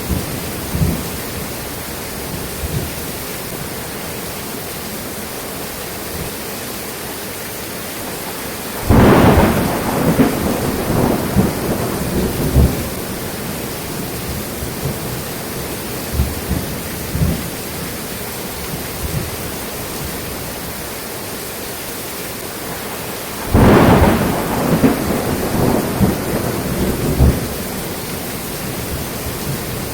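Steady rain falling, with a thunderclap about nine seconds in and another about fourteen seconds later, each cracking suddenly and rumbling off over a few seconds.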